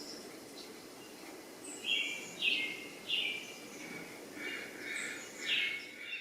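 Birds calling: a run of about half a dozen short chirps, starting about two seconds in, over a steady low background noise.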